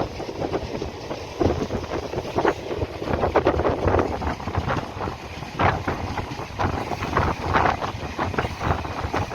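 Wind buffeting the microphone, an uneven rumbling noise that rises and falls in gusts.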